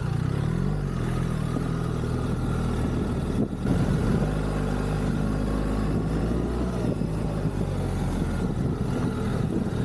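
BMW R1300GS boxer-twin engine running under load while riding, its pitch climbing in the first second. Its sound drops briefly about three and a half seconds in, as at a gear change, then picks up again.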